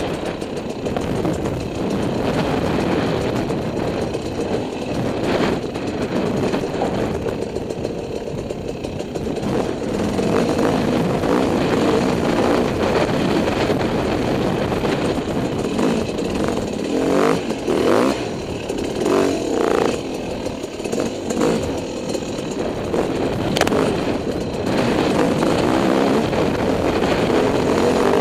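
Dirt bike engine running under changing throttle, its note rising and falling as the bike is ridden. Several sharp knocks come about two-thirds of the way in, and one more near the end.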